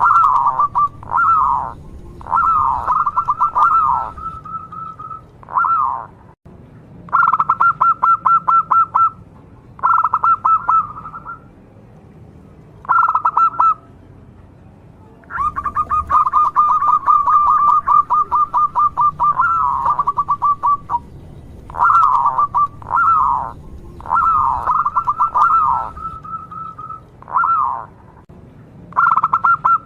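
Zebra dove (local perkutut) singing: about a dozen phrases of rapid staccato cooing notes, some dropping in pitch, each lasting one to four seconds with short pauses between.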